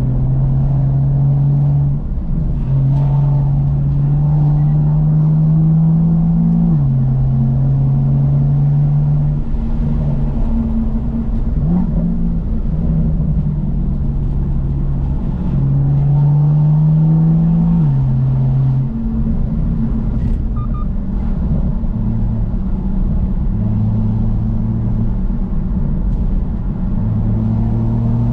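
BMW M2's N55 turbocharged inline-six running through a Remus exhaust while driving: the engine note climbs slowly and then drops sharply at gear changes, about seven and eighteen seconds in, with steadier cruising stretches between.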